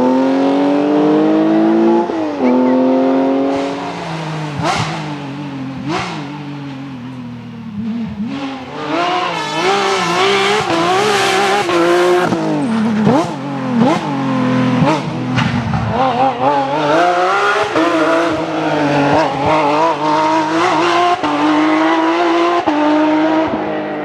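Porsche rally cars' flat-six engines at hard throttle, revving up through the gears with a shift about two seconds in, then revs swinging up and down again and again, with sharp cracks in between.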